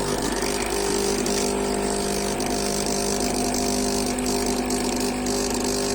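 Klarstein Espressionata Gusto espresso machine's pump running with a steady buzzing hum, pushing an even stream of water out through the brew head. This is the flushing run that empties the water tank before the first espresso.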